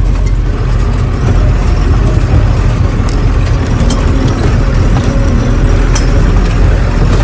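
A truck engine running while the truck is driven, with a steady low rumble and a few light rattles.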